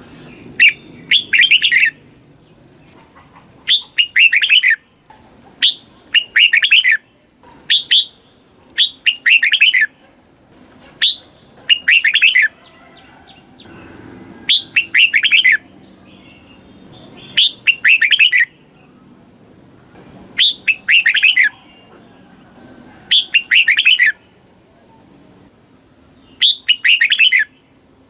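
Red-whiskered bulbul singing: short, quick warbled phrases of about a second each, repeated every one to three seconds with brief pauses between.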